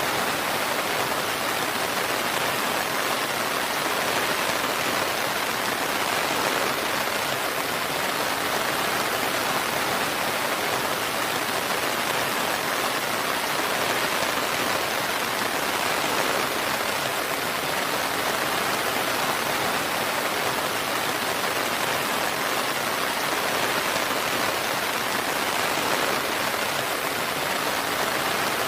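Steady heavy rain, an even continuous hiss of falling water with no thunder or breaks.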